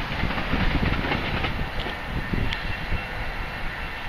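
A train running away down the tracks, its wheels rumbling and clacking on the rails, with the sound slowly fading as it goes.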